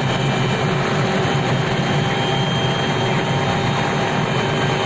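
Helicopter running: a steady, loud drone of engine and rotor noise, with a few faint steady whining tones over it.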